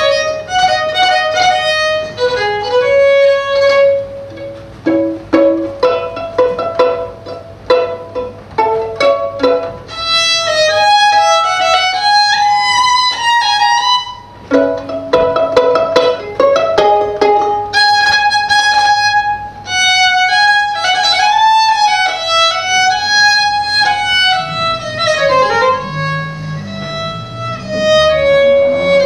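Solo violin playing a free, unaccompanied passage of quick short notes and sliding, held tones, mixed with some plucked notes.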